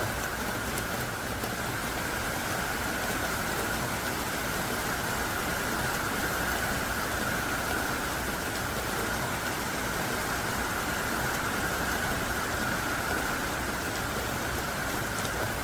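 Heavy, hard downpour falling steadily, an even hiss of rain without a break.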